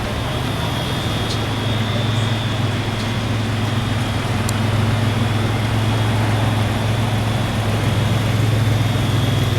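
Fire truck engine idling steadily with a deep, even hum that grows slightly louder in the second half.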